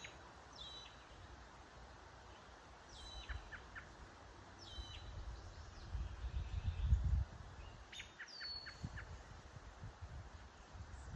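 Red-winged blackbird calling four times, each call a few short clicks and a high, clear note, over faint background hiss. A low rumble on the microphone comes about six to seven seconds in.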